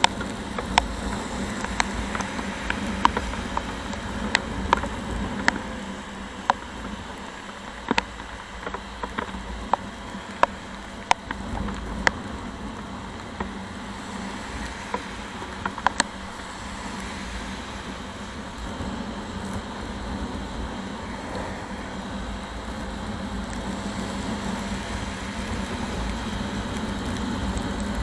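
Motorcycle riding in heavy rain: a steady drone of engine, wind and road noise, with frequent sharp ticks of raindrops striking close to the microphone through the first half that then thin out.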